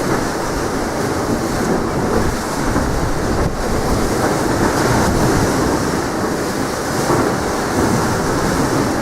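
Strong wind rumbling and buffeting against the microphone, a steady loud roar.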